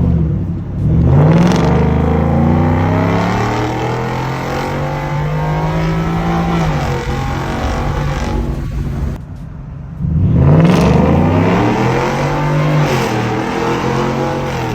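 A 2022 Ford F-150's 5.0 V8 with the muffler and resonator deleted, accelerating hard in two pulls. The engine note climbs and drops back at each gear change. It lets off briefly about nine seconds in, then pulls again.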